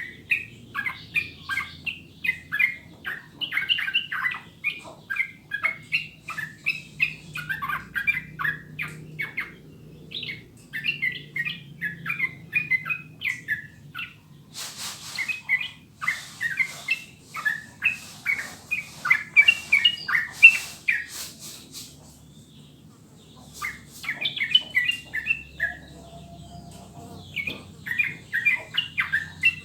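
Yellow-vented bulbul (trucukan) singing in long, rapid runs of short chattering notes, breaking off briefly about two-thirds of the way through before starting again. A hissing rustle sits under the song for several seconds in the middle.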